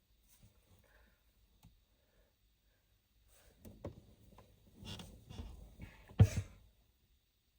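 Things being handled in a small space: scattered light clicks, then a run of clicks, rustling and knocks, with a sharper knock about six seconds in.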